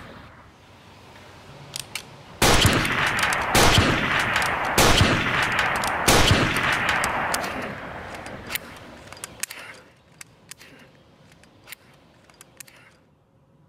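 Four loud gunshots about a second and a quarter apart, each with a long echoing tail, the echo dying away a few seconds after the last shot. A few faint scattered clicks follow.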